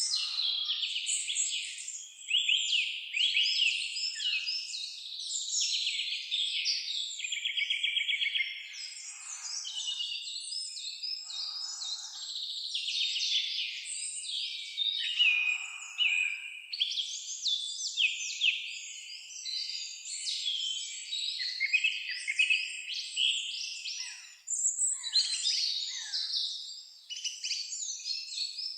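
A dense chorus of songbirds singing over one another, with overlapping chirps, whistled phrases and quick trills, including one fast trill about eight seconds in.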